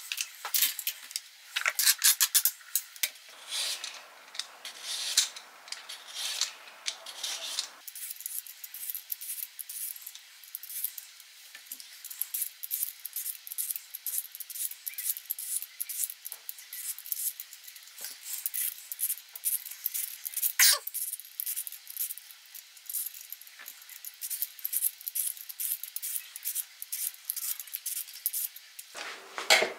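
Household handling sounds: a quick run of small clicks, taps and rubbing, with a steady hiss from about three to eight seconds in and a sharper click near the middle.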